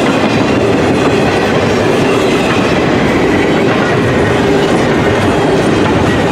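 Freight train rolling past, its wheels running on the rails as a loud, steady noise.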